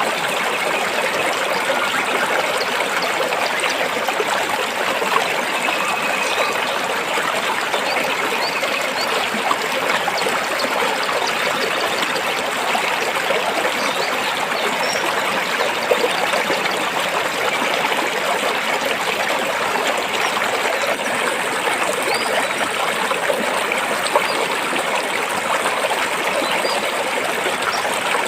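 Stream water flowing and trickling over rocks, a steady, even rush with no pauses.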